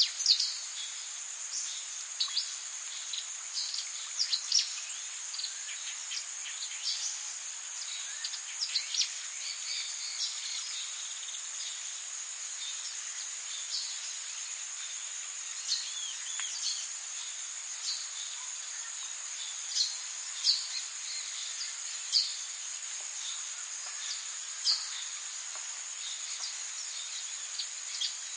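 Tropical rainforest insects keeping up a steady high-pitched drone, with short high bird chirps scattered through it every second or two, a few of them louder.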